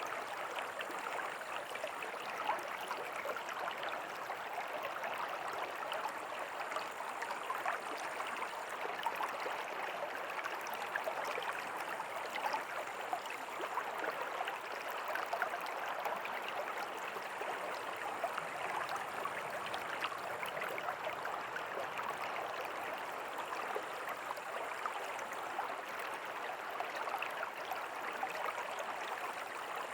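A river flowing: a steady, unbroken rush of water with fine splashing throughout.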